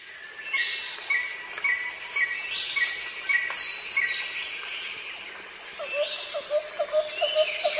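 Birdsong: several birds chirping, with repeated high whistles that slide downward. From about six seconds in, a lower short note repeats about twice a second.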